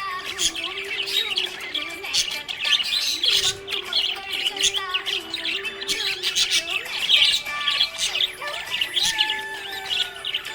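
A group of budgies chirping and warbling without pause, a dense chatter of quick overlapping chirps. A low steady tone that steps between a few pitches runs underneath.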